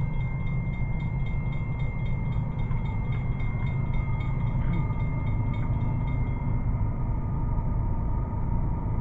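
Approaching train passing with a steady low rumble, and a fast, even clicking that fades out about six seconds in.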